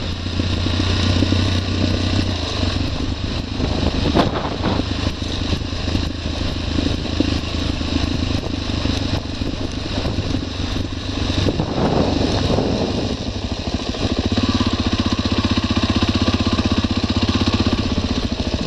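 Adventure motorcycle engine running steadily. It briefly swells twice, and about two-thirds of the way through it settles into a louder, even, pulsing note.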